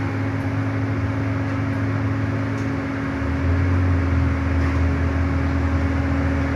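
Daikin inverter mini-split air conditioner running with a steady hum over an even rush of air. About three seconds in, the low hum drops in pitch and grows a little louder.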